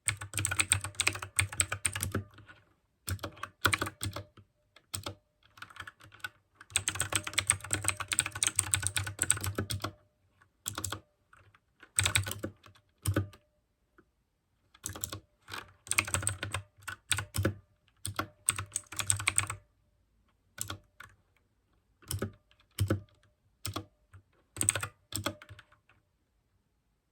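Mechanical keyboard with clicky blue switches being typed on: fast runs of keystrokes broken by short pauses.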